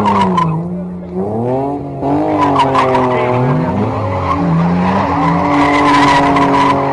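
BMW E30 engine revving up and down, then held at steady high revs from about two seconds in while the tyres squeal and skid as they spin.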